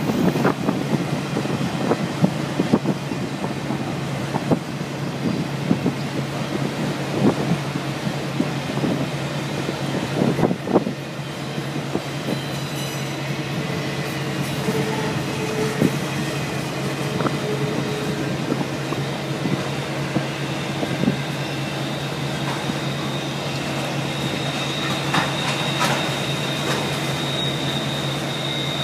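Empty autorack freight cars rolling past at speed, steel wheels clacking over the rail joints. A thin, steady, high wheel squeal comes in near the end.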